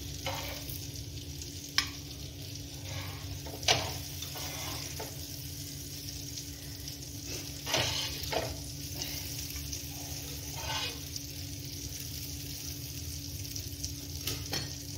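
Low, steady sizzling of brinjal slices frying on a tava, with a few sharp clicks and taps scattered through it as fried slices are set down on a ceramic plate.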